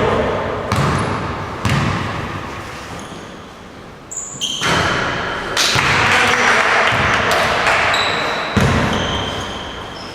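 Basketball game in a gym: a ball bounces on the court with separate echoing thumps, sneakers squeak briefly, and players' voices carry through the hall.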